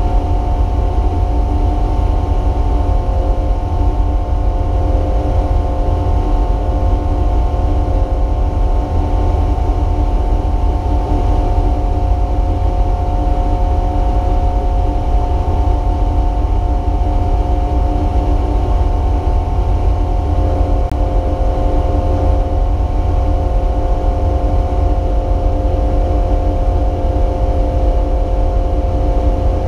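Race car engine running at a steady, almost unchanging pitch, over a deep rumble of road and wind noise.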